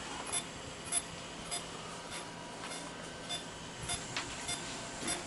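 Faint, regular ticking, a little under two ticks a second, over a low steady hum.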